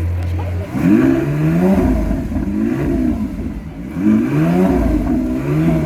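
A car engine idling steadily, then revved several times, about four blips in which the engine pitch climbs and falls back.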